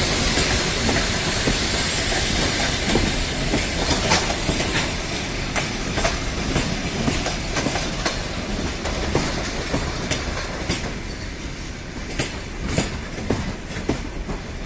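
Passenger train rolling past at speed, its wheels clicking over rail joints with a steady rumble, with a brief wheel squeal; the sound slowly fades toward the end as the train moves away.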